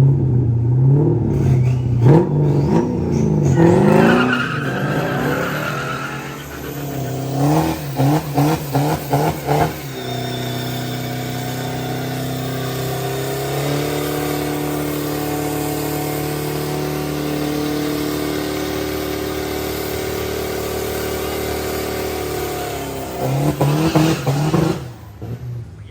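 GM LS V8 engine revving: sweeping rises and falls, then quick throttle blips, then held at high revs for about thirteen seconds before more short blips near the end.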